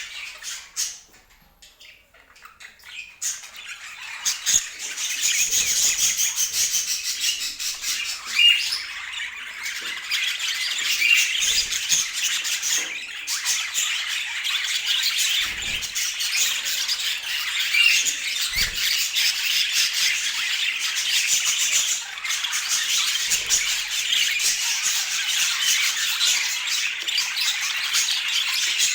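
Budgerigars chattering and squawking, a dense, busy mass of high calls that almost stops briefly about a second in, then starts up again and keeps going.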